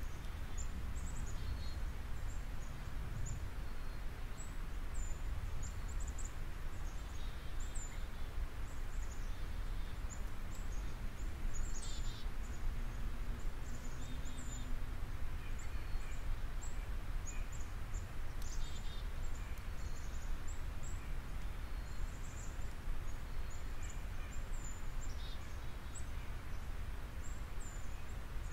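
Steady background noise with a low rumble, and faint, short, high-pitched bird chirps scattered throughout.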